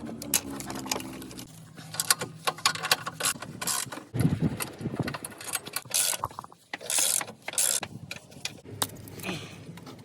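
Hand tools working on metal: a stretch of irregular clicks and clinks, with a few short scraping bursts, as parts are unbolted under a car.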